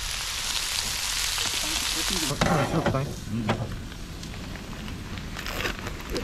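Pork belly frying: a loud, dense sizzle that drops off sharply about two and a half seconds in, leaving a fainter sizzle with scattered crackles.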